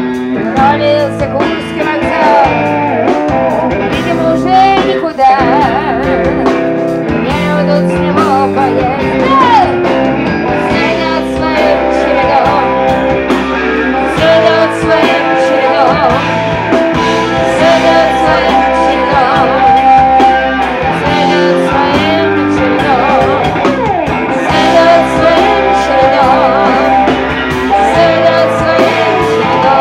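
Rock band playing with electric guitar and a singer, blues-rock in style.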